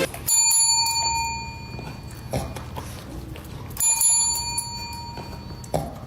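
A small bell rings twice, about three and a half seconds apart, each ring fading slowly, with a couple of light knocks between, over a low steady hum.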